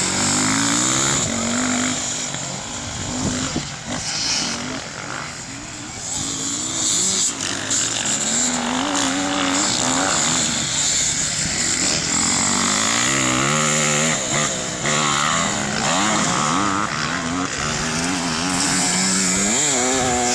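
Several off-road racing motorcycle engines revving as they pass on the circuit, their pitch climbing and dropping again and again with acceleration and gear changes, over a steady high hiss.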